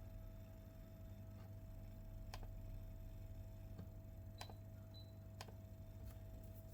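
A handful of faint, sharp, isolated clicks a second or so apart, over a steady low electrical hum.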